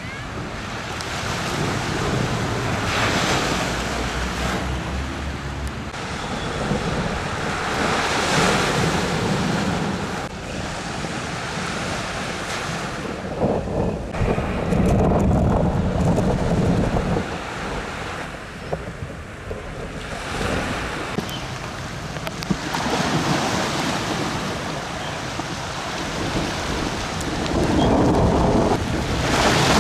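Rough sea surf, waves breaking in surges every few seconds, with strong wind buffeting the microphone: a sea whipped up by strong winds.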